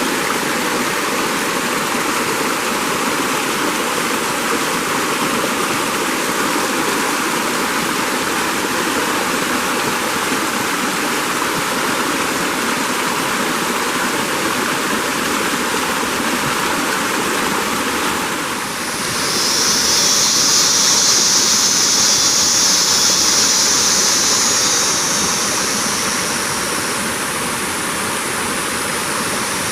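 Steady rushing noise of running water. About two-thirds of the way in, a loud, high-pitched steady hiss joins for several seconds and then fades.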